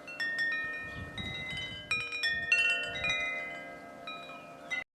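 Wind chimes ringing: clusters of bright, overlapping metal tones that ring on, struck again several times, and cut off suddenly near the end.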